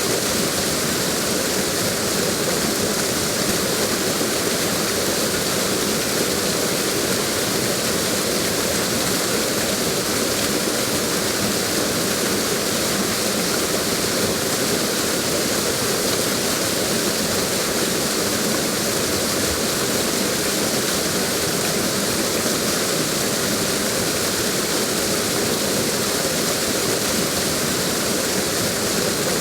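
Waterfall: water pouring steadily over a drop, a constant even rush with no breaks.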